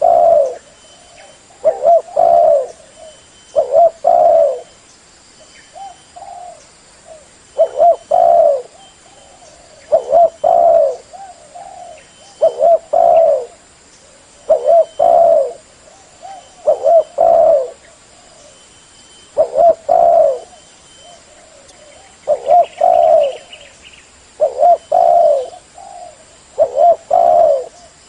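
Spotted dove cooing: short two- and three-note coo phrases repeated about every two seconds.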